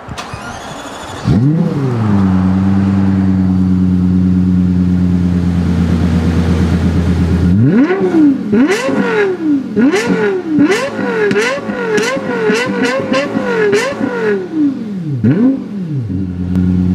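Lexus LFA's 4.8-litre V10 cranked and started about a second in, flaring briefly before settling to a steady idle. It is then blipped about eight times in quick succession, each rev rising and falling sharply, before dropping back to idle.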